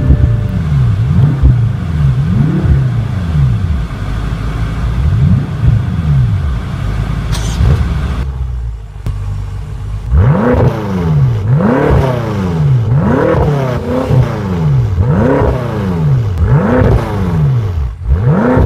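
2014 BMW M5 (F10) twin-turbo 4.4-litre V8 starting up with a loud flare of revs, then idling with a few throttle blips. From about ten seconds in it is revved in a regular run of about seven quick blips, each rising and falling in pitch, roughly one every second and a bit.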